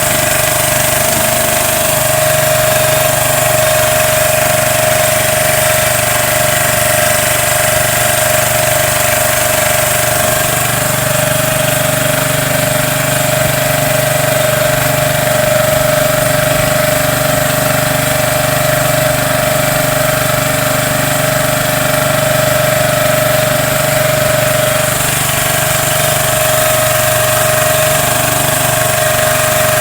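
Small boat engine running at a steady speed: an even, unbroken mechanical drone.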